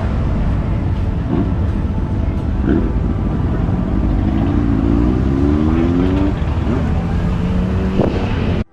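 A motorcycle engine over steady outdoor noise, its pitch rising for a couple of seconds in the middle; the sound cuts off abruptly near the end.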